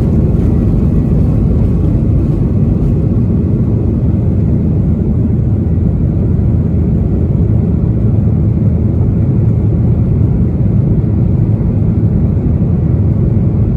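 Steady, loud rumble of engine and airflow noise inside the cabin of a Boeing 737-800 airliner in flight.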